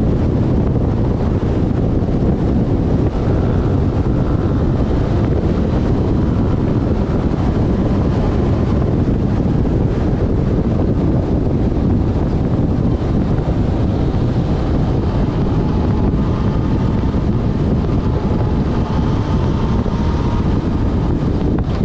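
Wind rushing over the camera microphone on a moving motorcycle, with the Yamaha Fazer FZ6S's inline-four engine running steadily underneath. The sound is loud and even, with no breaks.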